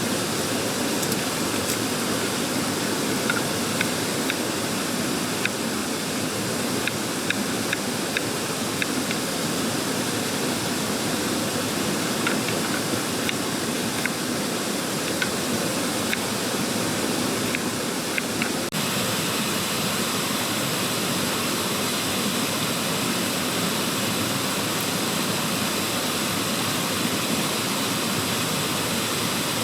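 Mountain stream rushing steadily, with faint scattered small clicks over it for the first two-thirds. The rushing sound changes character abruptly about two-thirds of the way in.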